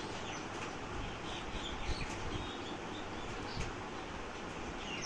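Small birds chirping in the background: a few short chirps and a falling call near the end, over steady background noise.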